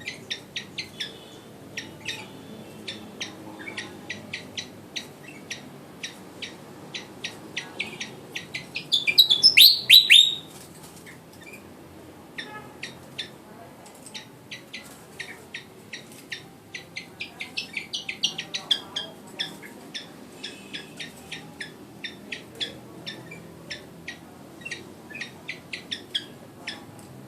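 A young captive sikatan (flycatcher) practising its song: short, sharp chirps repeated two to three times a second, with a loud burst of quick rising whistled notes about nine to ten seconds in.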